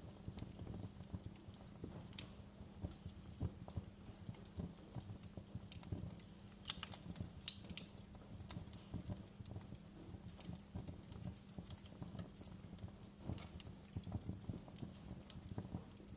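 Wood fire crackling in a fireplace: a low, steady rumble of flames with irregular small crackles throughout and a few sharper pops about seven seconds in.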